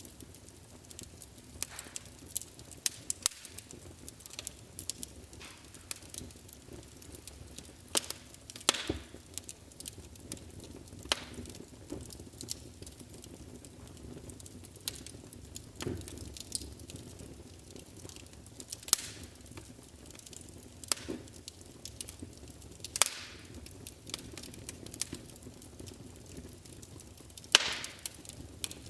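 Wood fire burning in a fireplace: irregular crackling with frequent small pops and a few louder snaps over a low steady hiss of the flames.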